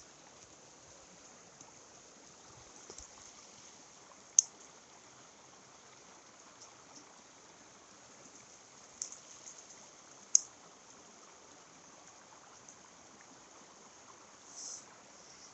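Faint, steady rush of a mountain stream, broken by a few sharp clicks, the loudest about four and ten seconds in.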